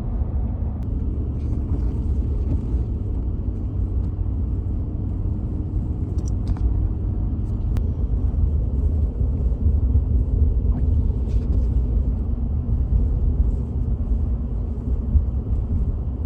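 Steady low rumble of a vehicle driving, heard from inside the cab, with a few faint ticks.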